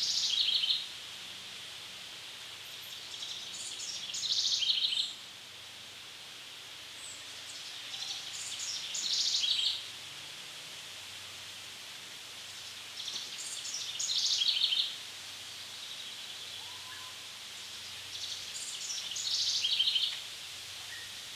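A songbird repeats the same short song five times, about every five seconds. Each song is a quick run of high notes, over a steady faint hiss of woodland background.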